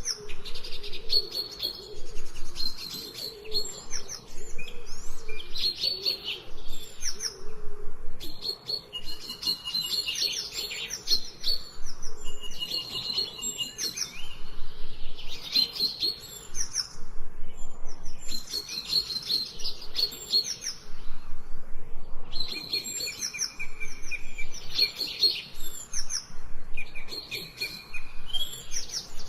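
Several songbirds singing together: overlapping high chirps, whistles and trills in repeated phrases, with short lulls between them.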